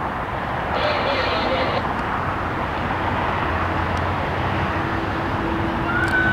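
Amtrak Pacific Surfliner passenger train arriving, its diesel locomotive and rolling wheels making a steady rumble with a faint hum.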